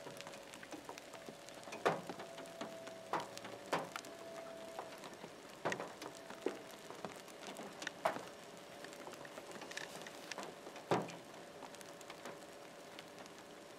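Steady rain pattering, with single large drops striking close by every one to three seconds as sharp ticks. A faint steady tone runs underneath, clearest during the first few seconds.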